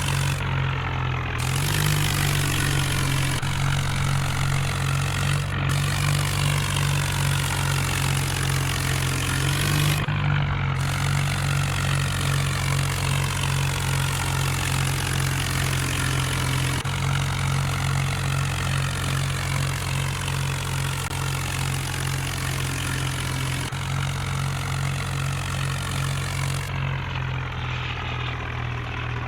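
Tractor engine running steadily, its deep hum holding throughout.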